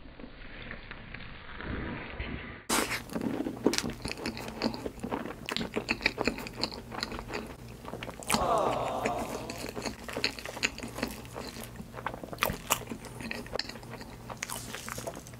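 Close-miked ASMR eating of soft mille crêpe cake: wet chewing, smacking and clicking mouth sounds, several a second. The sound is duller for the first few seconds, then turns sharper and brighter.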